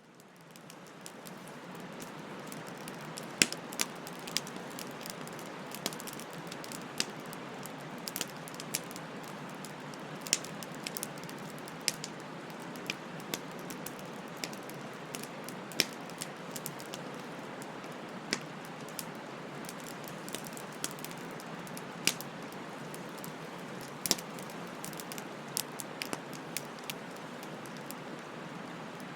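Wood fire burning with a steady soft hiss and frequent sharp, irregular crackles and pops, fading in over the first second or two.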